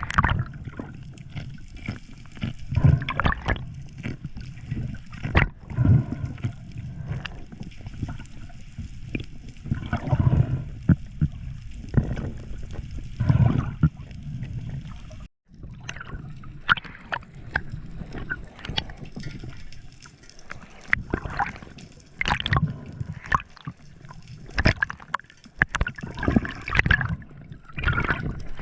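Sea water sloshing and gurgling, in uneven surges every couple of seconds, with a brief dropout a little past halfway.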